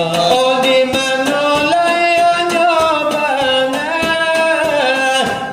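Salawat dulang: a melismatic Minangkabau devotional song, sung over a steady quick beat struck by hand on a brass tray (dulang).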